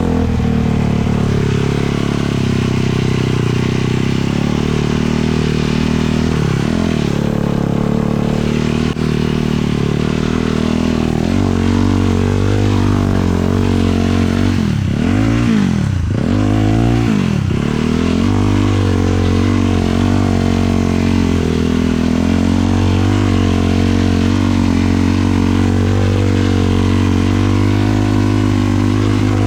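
450 sport quad's single-cylinder four-stroke engine running under way, its note mostly steady, with several quick drops and climbs in pitch in the middle as the throttle is rolled off and back on.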